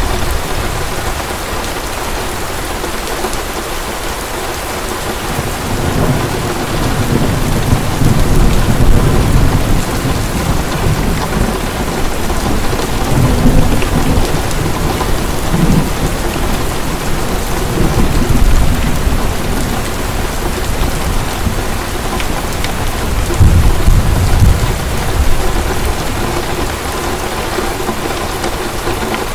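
Heavy rain falling steadily, with low rolling thunder that swells and fades several times, loudest a little before halfway and again near the end.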